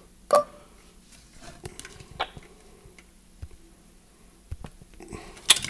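Scattered light clicks and taps from a camera being handled while its brightness setting is changed, the sharpest about a third of a second in and another near the end, over a faint steady hum.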